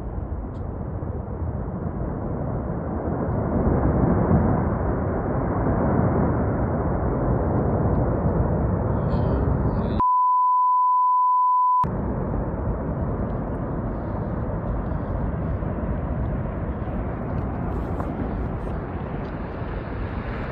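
Steady, heavy storm-wind rumble buffeting the microphone. About ten seconds in, all sound cuts out for a steady high censor bleep about two seconds long, then the rumble resumes.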